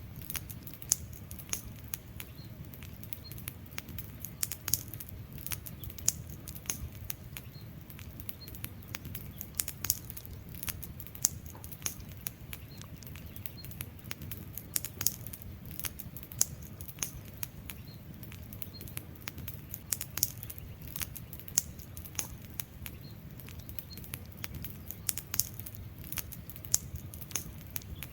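Wood fire crackling: sharp, irregular pops and snaps, several a second, over a steady low rush of burning logs.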